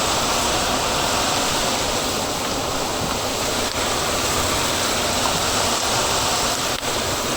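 Steady rushing hiss of a street-food stall's wok cooking, with a couple of faint clicks.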